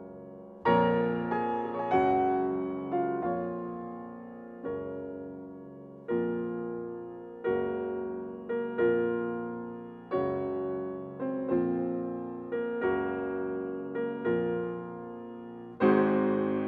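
Background piano music: slow chords struck about every second, each fading before the next.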